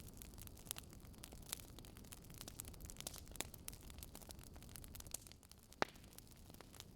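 Wood fire crackling, with many small irregular pops over a low steady rumble and one sharper pop near the end.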